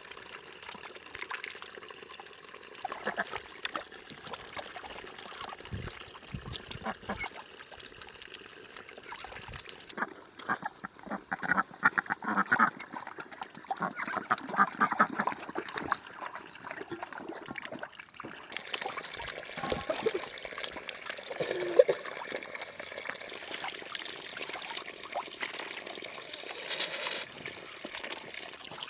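Animal calls, several raspy pulsed calls in clusters around the middle and one shorter pitched call later, over a steady background of trickling water.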